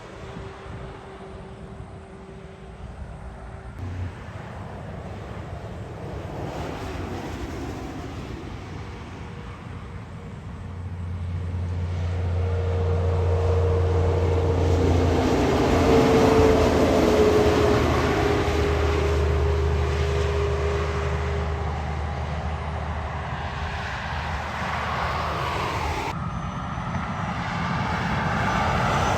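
A semi-trailer truck's diesel engine drone building as it approaches and passes about halfway through, its pitch dropping slightly as it goes by, then easing off before another vehicle comes up near the end.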